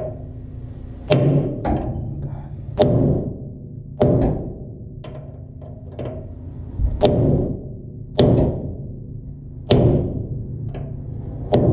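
Hammer striking a punch to drive out a fastener of an old leaf-spring hanger on a steel truck frame. Heavy metallic blows land about once every second or so, each with a short ring.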